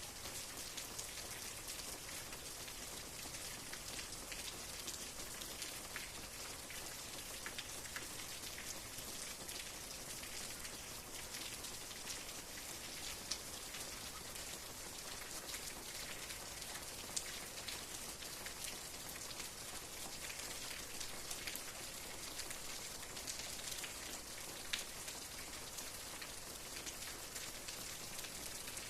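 Steady rain falling on a surface, a soft even hiss with many distinct drops pattering through it.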